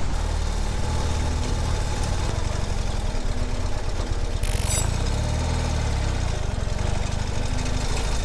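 Ural sidecar motorcycle's air-cooled boxer-twin engine running steadily under way, a dense low throb.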